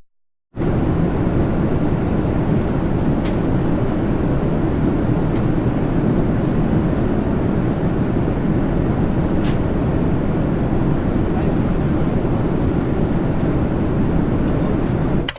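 Steady aircraft engine noise: a dense low drone with no distinct pitch, cutting in after about half a second of silence.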